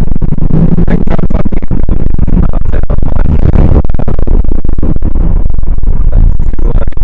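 Loud, distorted rumble of wind and road noise in a moving car, overloading the microphone with irregular crackling buffets.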